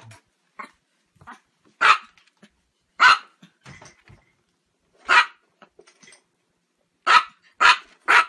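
Small dog barking: six short, sharp barks, spaced a second or two apart at first, then three in quick succession near the end.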